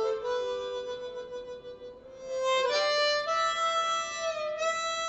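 Blues harmonica playing: a long held note fades away, then a new, louder note comes in about two and a half seconds in and is held, followed by more sustained notes.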